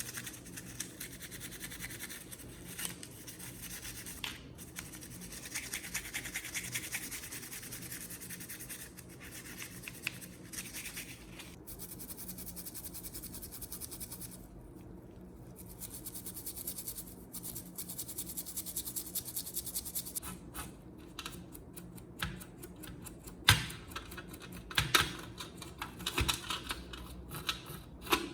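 Rapid, steady scraping or brushing strokes on a hard surface, then separate clicks and a few sharp knocks near the end.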